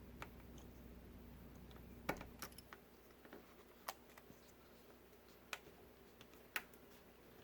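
Faint, scattered clicks and light taps of small tools and parts being handled on a workbench, about six sharp ticks spread through a near-silent stretch.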